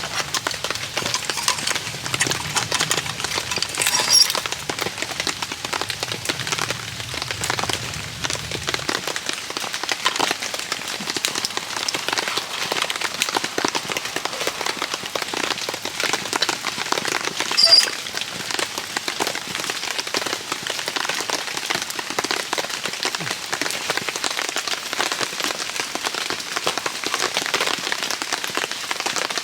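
Steady rain falling on a DD tarp overhead, a dense run of fine drop ticks. Two sharper pops stand out, one about four seconds in and a louder one near eighteen seconds.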